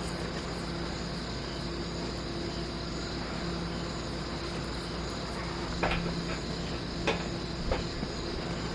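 Steady chirring of night insects such as crickets, with a few sharp clicks about six and seven seconds in.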